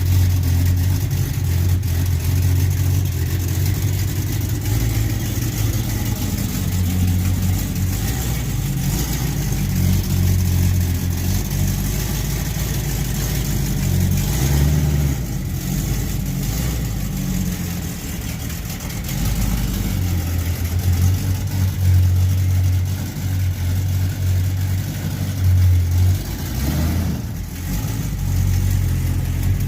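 A 1978 Chevrolet Malibu's V8 engine running, its low note swelling and dipping in level throughout.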